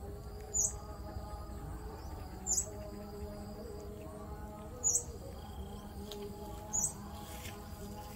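A bird giving a short, sharp high chirp about every two seconds, four times, over a faint steady background of low tones.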